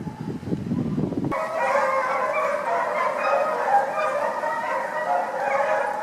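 Wind buffeting the microphone, then from a little over a second in a pack of hounds baying together in a continuous, overlapping chorus while running a fox.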